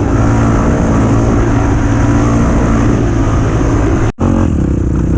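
Dirt bike engine running at steady revs. The sound drops out for an instant about four seconds in.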